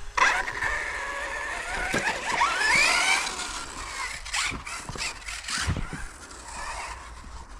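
Electric brushless motor of a Hobao Hyper 10 TT 2.0 RC truggy, a 4250 kV motor on a 2S battery, whining as the car accelerates and slows, its pitch rising and falling. Several sharp knocks come in the second half.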